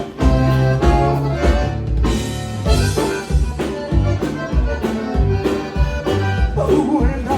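Live band playing an instrumental passage with a steady beat, a pulsing bass line and a lead melody.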